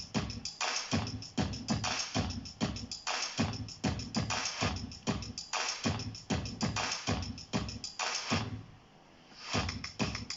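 Electronic music with a steady drum-machine beat and strong bass, played over Bluetooth through a Paiyda soundbar with a built-in subwoofer. The beat drops out for about a second near the end, then comes back in.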